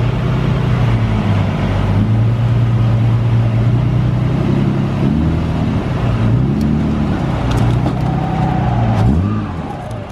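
Motor vehicle engine running steadily, then its pitch rising and falling repeatedly over the last five seconds or so.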